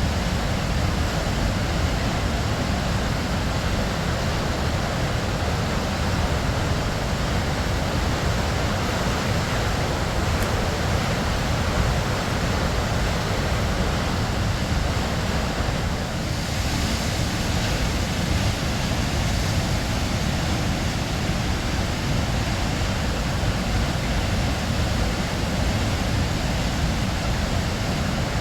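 Waterfall: a steady, unbroken rush of falling water, heaviest in the low rumble, with no other events.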